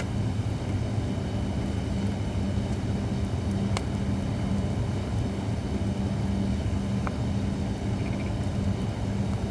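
Holly firewood burning in a campfire, giving a few sharp crackles over a steady low drone.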